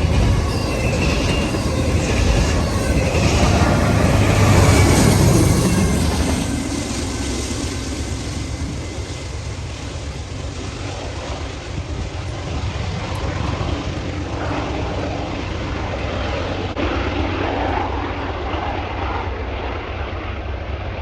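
Rear diesel locomotives of a freight train passing: a loud engine drone that peaks about four to five seconds in, then eases to a steadier, lower running sound as they move off.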